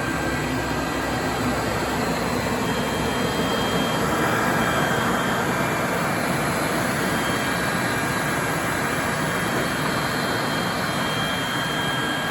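Webasto Thermo Top C fuel-fired water heater running steadily on a test bench: an even combustion roar with a faint high whine from its blower motor.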